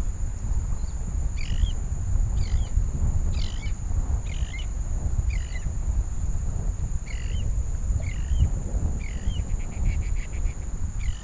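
A bird calling over and over, a short note about once a second, with a quick rattling call near the end. Wind buffets the microphone throughout.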